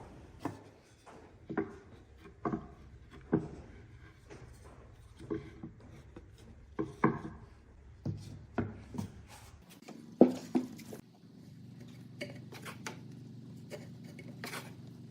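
A series of sharp knocks on wood, roughly one a second, some of them ringing briefly; from about ten seconds in they give way to a steady low hum with scattered light clicks.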